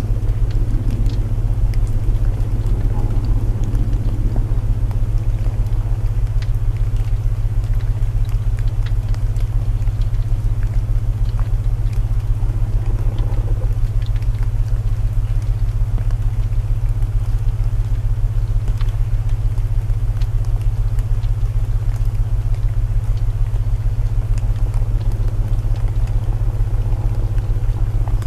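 Layered sleep soundscape: a loud steady low binaural drone under an even hiss of rain, with scattered small crackles and pops from burning wood.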